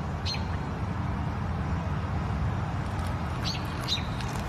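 A few short, high bird chirps, one about a quarter second in and two close together near the end, over a steady low rumble.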